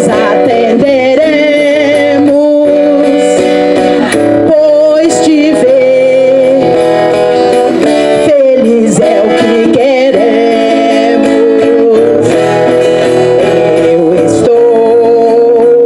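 Singing with acoustic guitar accompaniment: long held notes that waver slightly and change pitch every second or two.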